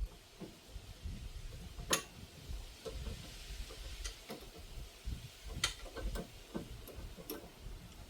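Irregular metallic clicks and light knocks of hand tools at work on a car's suspension and brakes, with two sharper clicks about two seconds in and just before six seconds.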